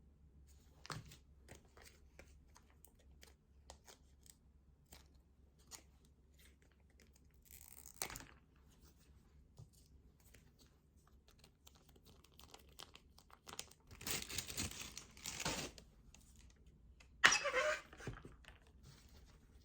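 Small handling noises: scattered light clicks and taps, then a stretch of rustling and crinkling about 14 to 16 seconds in, and a louder rustle with a short squeak about 17 seconds in.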